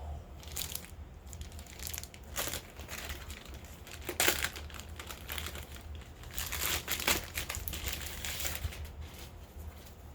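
Packaging crinkling and rustling as it is handled during an unboxing, in repeated bursts with the loudest a little after four seconds in.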